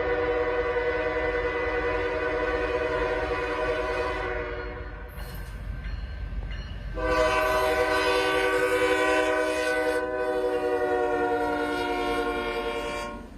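Norfolk Southern locomotive's air horn sounding two long blasts, the second starting about seven seconds in and lasting about six seconds, over the low rumble of the passing train.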